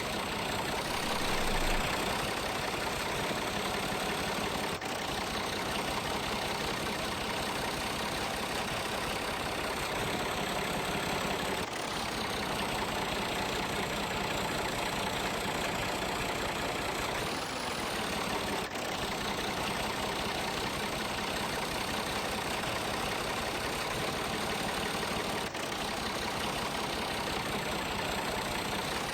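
An engine running steadily at a low, even speed, with a short break about every seven seconds where the sound cuts off and starts again.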